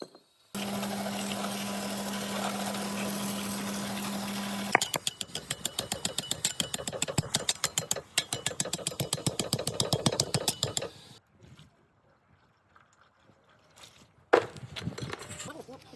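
A power tool running steadily with a low hum and hiss for about four seconds, then hammering in a rapid, even rattle for about six seconds before stopping; a single loud knock comes near the end.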